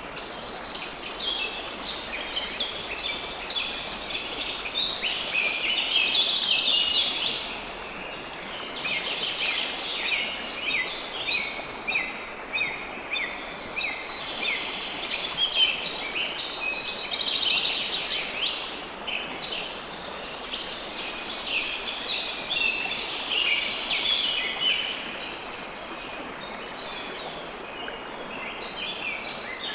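Flowing river water, a steady rush, under a dense chorus of many small birds chirping in quick, overlapping calls that thin out for a few seconds near the end.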